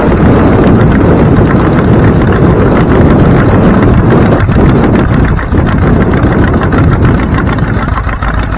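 A vehicle's engine running under way with wind buffeting the microphone, easing off toward an idle near the end.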